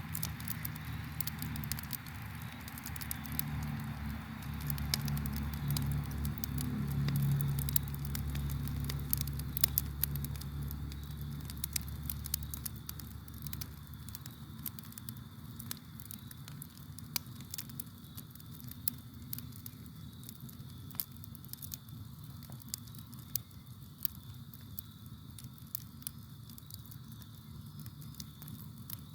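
Campfire crackling and popping in sharp, irregular snaps. A low rumble of the flames fades out about twelve seconds in. Crickets chirp faintly and steadily underneath.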